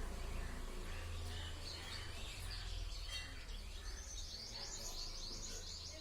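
A small bird calling: scattered high chirps, then about four seconds in a rapid high trill of quickly repeated notes lasting about two seconds.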